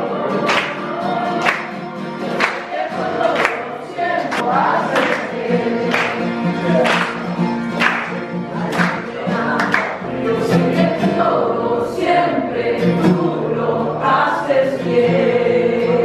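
Christian worship music: a group of voices singing over a band with a steady beat of about one stroke a second.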